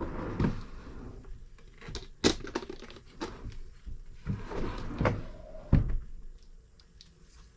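Batteries being fitted into the engine's battery holder by hand: handling noises with several sharp clicks and knocks, the loudest a little over two seconds in and near six seconds, among softer rubbing and fumbling.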